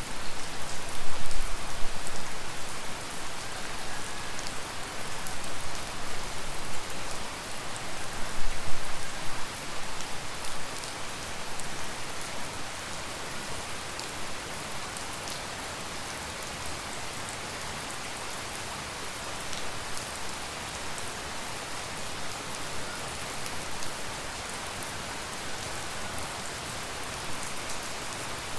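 Steady tropical rain falling, with scattered individual drops ticking. It is louder and more uneven for about the first ten seconds, then settles to an even patter.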